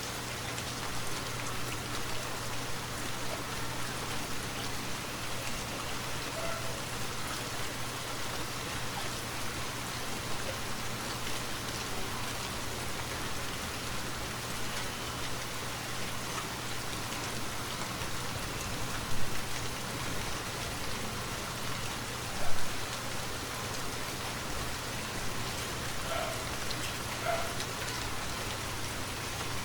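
Steady rain falling, a continuous even hiss of drops, with a steady low hum underneath. Two brief, much louder hits stand out about two-thirds of the way through.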